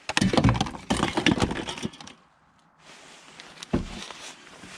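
Clattering and cracking of scrap and debris being handled and pulled about: a dense run of knocks for about two seconds, a short lull, then a single sharp knock.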